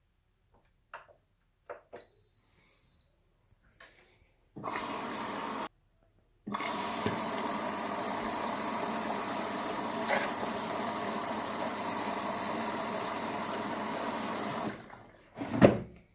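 Indesit washing machine beeping once, then its water inlet valve opening and water rushing in steadily to fill the machine, with a short break early on and a cut-off after about eight seconds. A loud knock comes near the end.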